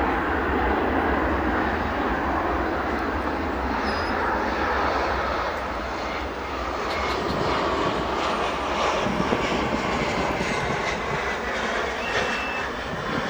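Jet airliner engines giving a steady roar that dips a little about halfway through, then builds again.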